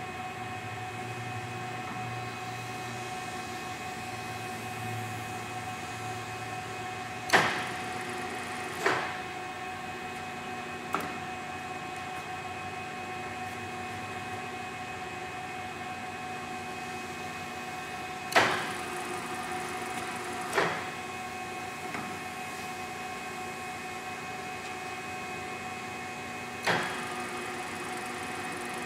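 Large heavy-duty engine lathe running: a steady motor and gearbox hum with a whine, broken by several sharp clunks a few seconds apart.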